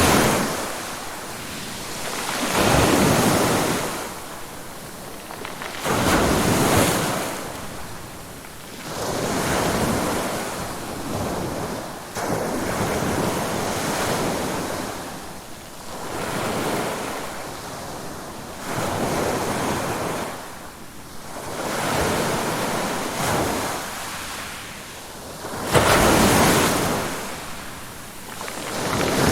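Ocean surf: waves breaking and washing up a shore, each one swelling and ebbing about every three seconds.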